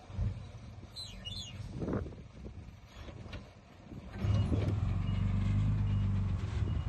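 Diesel engine of heavy earthmoving equipment running, then loading up and growing much louder about four seconds in. A faint high beep repeats about twice a second once the engine is loud.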